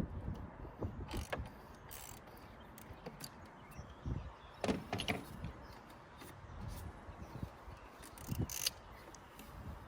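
Irregular clicks, knocks and light rattles of hands and tools working on a diesel fuel filter housing, with a louder cluster about halfway through and another near the end.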